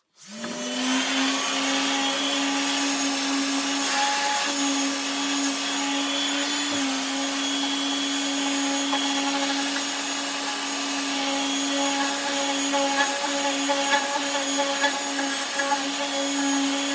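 Electric sander switching on, spinning up within half a second and then running steadily with a hum and a loud hiss, the level flickering slightly in the last few seconds.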